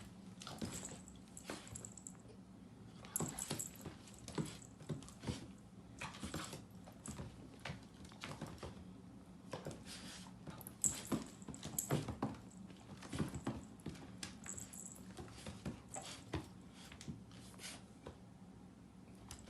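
A cat and a pit bull puppy scuffling in play: irregular light taps, clicks and scrapes of paws and claws on the floor, some sharper and louder than others, over a steady low hum.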